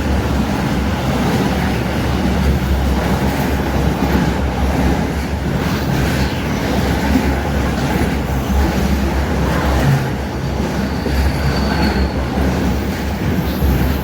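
Freight train rolling past at close range, a loud, steady rumble of wheels on rail, with a faint, brief high wheel squeal about eleven seconds in.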